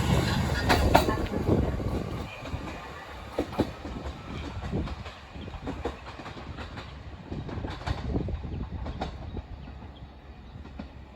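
Train running on the rails, its wheels clacking over rail joints with a low rumble. It is loud at first and fades over the first couple of seconds, leaving a quieter rumble broken by a few sharp clicks.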